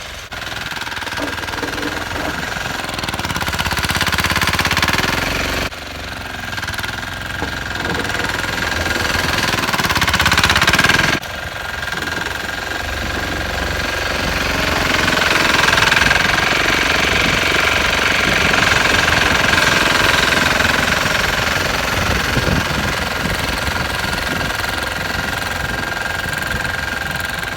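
Sears 8XL garden tractor engine running under load while plowing snow, its loudness swelling and then dropping sharply twice, about six and eleven seconds in, with a steady whine over the engine.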